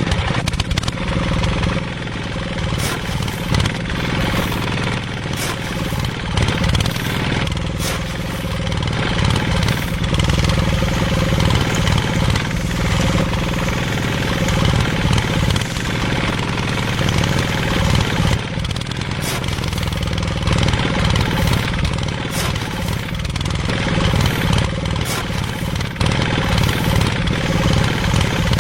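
Mini tractor engine running steadily, a low, even engine note with a light ticking on top.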